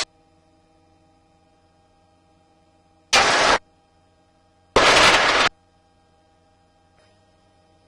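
Two bursts of radio static over the helicopter intercom, one about half a second long and one a little under a second, each switching on and off abruptly, against a faint steady hum.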